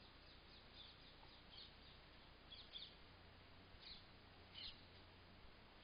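Faint chirps of small birds: a few short, high, slightly falling notes spaced about a second apart, over quiet background noise.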